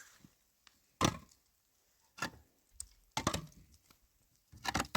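Four sharp knocks, about a second apart.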